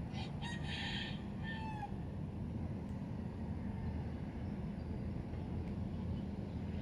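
A rooster crows once, a call of about two seconds with a bend in pitch near its end, over a steady low rumble of background noise.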